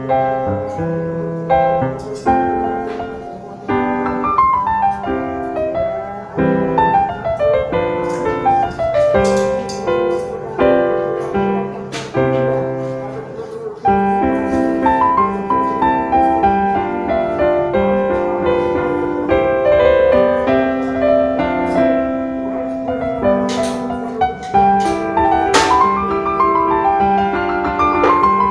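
Background piano music: a flowing keyboard piece with held chords and runs of notes rising and falling.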